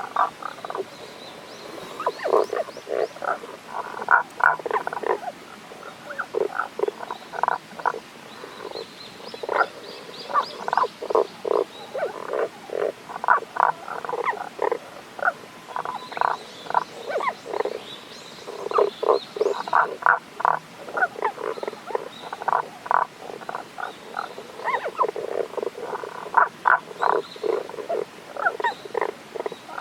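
Tago's brown frogs calling: short, low croaking notes given in quick runs of several, repeated again and again.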